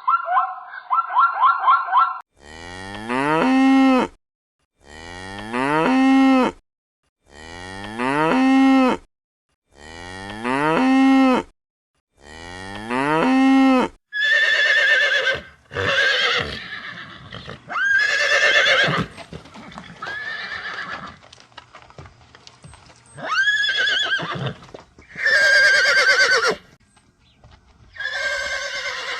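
The end of a wavering animal call, then a cow mooing five times, the same rising moo repeated every couple of seconds. After that comes a series of higher, quavering horse whinnies.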